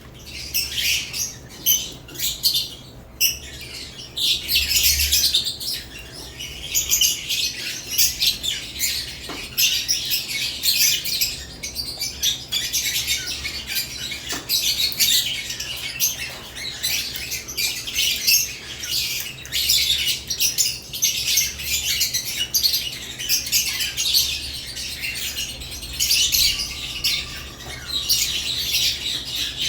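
Caged lovebirds chirping and squawking continuously, many short high-pitched calls overlapping.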